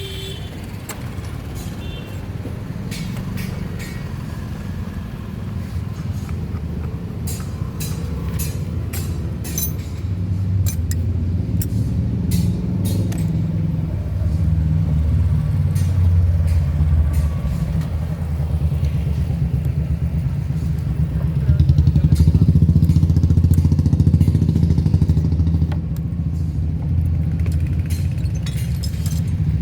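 Motorcycle engine running steadily, growing louder through the stretch, with a few sharp metallic clicks in the first ten seconds.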